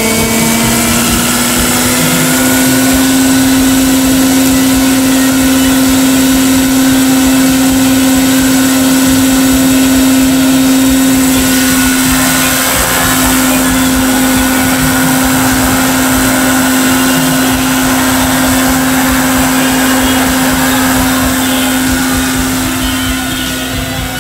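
Large electric scale RC model of an MH-60 Jayhawk helicopter, its rotors running with a loud steady hum and a faint high electric whine. The pitch rises a little over the first couple of seconds as the rotor comes up to speed, then holds as the model lifts off and climbs away. The sound eases slightly near the end.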